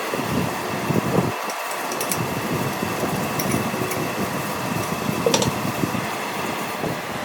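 Steady mechanical hum of workshop machinery running, with a few short sharp clicks.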